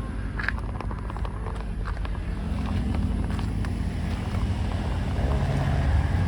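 Car engine and road noise heard from inside the moving vehicle: a steady low rumble.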